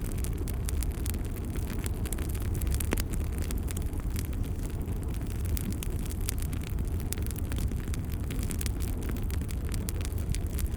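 Wood fire crackling in a fireplace: frequent small pops and snaps over a steady low rumble of the flames.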